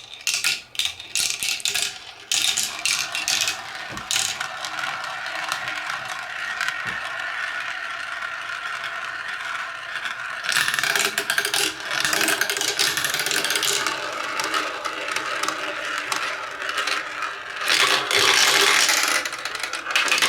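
Plastic ball rolling down a Kumikumi Slope plastic marble-run track: a steady rolling rattle, with clicks as it drops between pieces near the start and louder clattering stretches midway and near the end.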